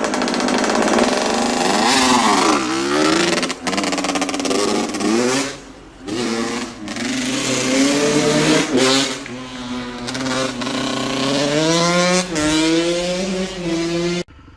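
Dirt bike engines revving and accelerating, the pitch climbing and dropping again and again as the throttle is worked and gears change. The sound cuts off suddenly near the end.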